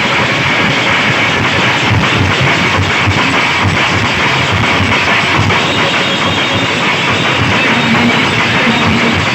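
Very loud music played through large festival sound-system speaker stacks, with a heavy, repeated bass beat.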